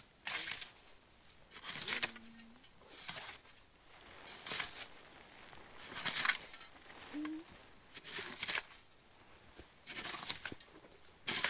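Snow crunching in short, evenly spaced strokes, one every second or two.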